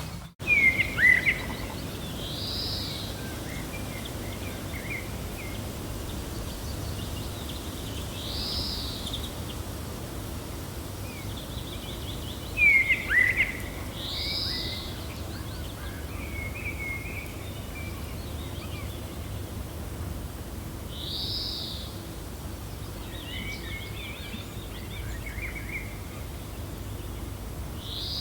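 Gentle wind blowing steadily, with birds chirping over it: a high, arched call repeats about every six seconds, sharp downward-sweeping chirps come loudest about a second in and again about halfway through, and softer chirps are scattered between.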